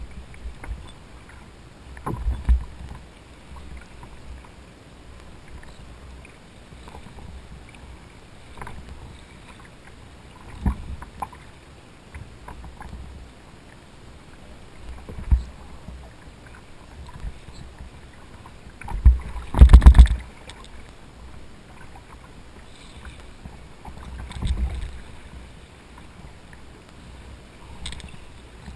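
Kayak on open water: a steady low wash of water and wind with irregular thumps and knocks against the hull, about five spread out, the loudest a short cluster about twenty seconds in.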